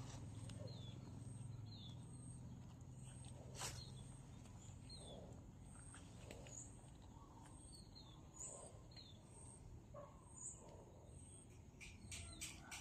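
Faint outdoor ambience with a bird's short, falling chirps repeated every second or so, and a single sharp click a few seconds in. Near the end a rapid pulsing of about five beats a second starts up.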